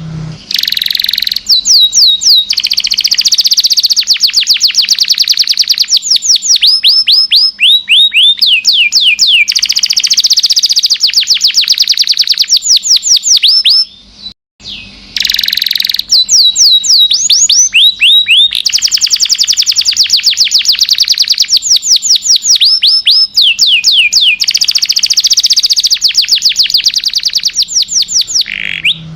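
Domestic canary singing a long, continuous song of rapid trills and runs of quick downward-sweeping whistled notes, high-pitched and loud, with a short break about halfway through.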